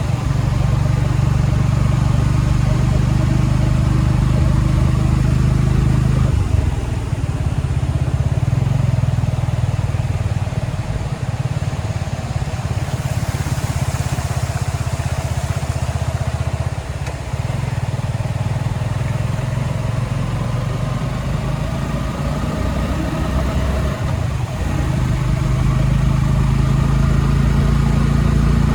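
A motor vehicle's engine running steadily; its note drops about six and a half seconds in and rises again near the end as the engine speed changes.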